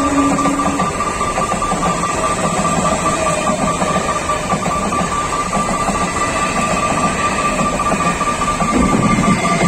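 Passenger train running past at close range: a steady, loud rush of wheels and coaches on the rails, with thin squealing tones held through it. A lower held tone stops under a second in.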